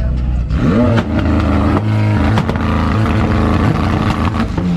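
A car engine revving hard: about half a second in its pitch jumps and climbs, then it holds high with brief dips and swings up and down again.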